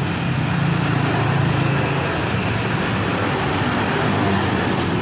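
Steady road traffic on a city street: vehicle engines running and a constant wash of tyre noise, with no single vehicle standing out.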